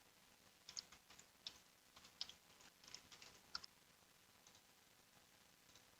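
Faint typing on a computer keyboard: a quick run of about a dozen key clicks in the first few seconds, then a few scattered clicks.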